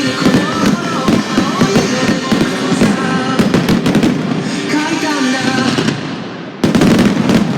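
Fireworks bursting and crackling over music played for the show. A sudden loud volley of bangs comes near the end.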